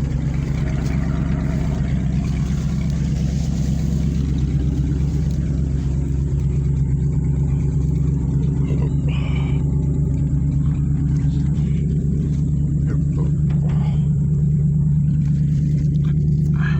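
1994 Ford one-ton truck's engine running steadily under load, a constant low drone that grows a little louder in the last few seconds.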